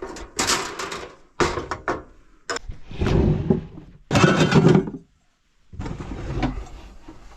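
Rummaging through storage for cooking gear: a run of knocks, clatters and handling noises, with two louder, longer scraping thuds about three and four seconds in, like drawers or cabinets being slid open and shut.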